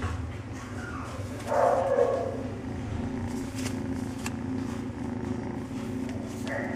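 Kitten purring steadily close to the microphone. A brief louder animal sound cuts in about a second and a half in.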